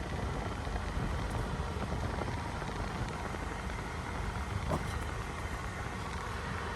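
Car engine idling steadily with the air conditioning running, a low rumble under an even hiss; a faint click about five seconds in.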